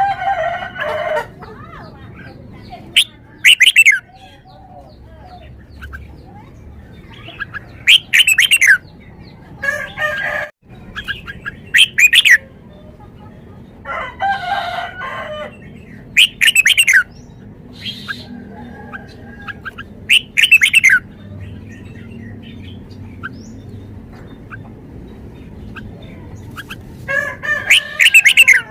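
Caged red-whiskered bulbul singing short, loud whistled song phrases that glide in pitch, repeated every couple of seconds.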